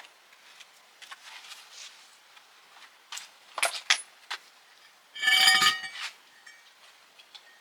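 Metal parts and tools clinking as they are handled: a few light clicks and clinks, then a louder ringing metal clank about five seconds in.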